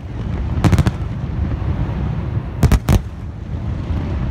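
Aerial fireworks exploding: a quick cluster of sharp bangs just under a second in, then two loud bangs close together near the three-second mark, over a continuous low rumble of bursts.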